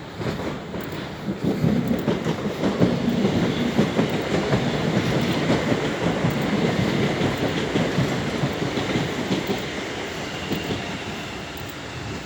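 Train passing on the line, building about a second in, loudest through the middle and fading toward the end.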